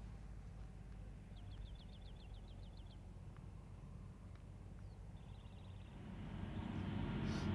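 Outdoor ambience with a low, steady rumble, over which a small bird gives a quick trill of about ten short high notes, then a shorter, fainter trill; the background noise swells near the end.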